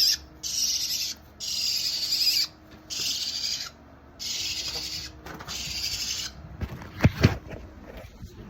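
Harsh, raspy bird squawks repeated about six times, each lasting up to a second with short gaps: distress or alarm calls around a fallen fledgling with a broken wing. Two dull thumps follow near the end.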